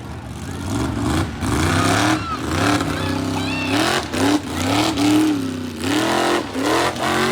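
A vehicle engine revving hard in repeated surges, its pitch climbing and dropping several times, with one longer held rev about three seconds in.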